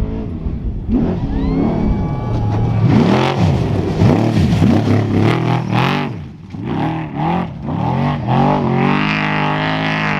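Off-road race truck engine revving up and down in quick repeated swings as the throttle is opened and lifted, then settling into a steadier, slowly rising pull near the end.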